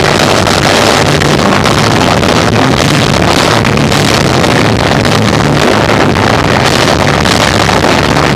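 Rock band of electric guitar, bass and drums playing live, recorded badly overdriven: a dense, distorted wash with steady bass notes and frequent drum hits.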